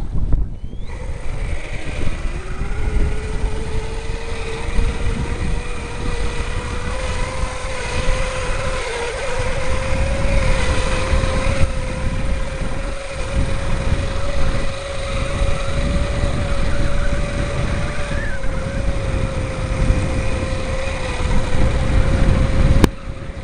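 Electric bike motor whining under load, its pitch climbing over the first few seconds as speed builds and then holding steady. Heavy wind buffeting on the microphone runs underneath. The sound cuts off suddenly near the end.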